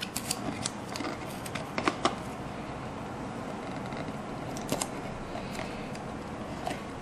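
Hands working on a craft model: scattered light clicks and ticks of handling the materials, several in the first two seconds and a pair near five seconds, over a steady low hum.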